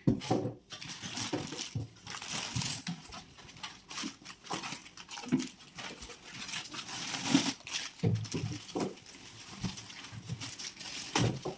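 Packaging being unpacked: irregular rustling and crinkling of plastic wrap and cardboard, with short knocks and handling noises, and several brief low vocal-like sounds mixed in.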